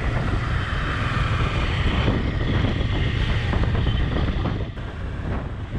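Wind rushing over the microphone with motorcycle and road noise underneath, a steady dense rumble while the bike is ridden.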